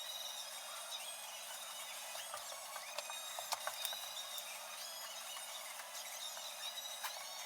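Light, irregular metallic clicks and ticks from hand tools working on motorcycle brake parts, over a faint steady background hiss.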